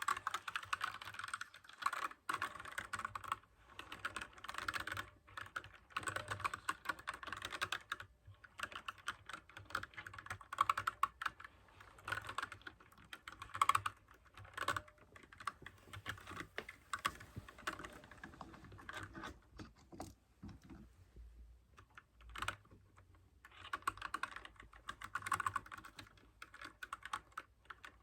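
Mechanical keyboard with clicky blue switches being typed on fast, in bursts of rapid key clicks, with a short lull about three-quarters of the way through before another burst.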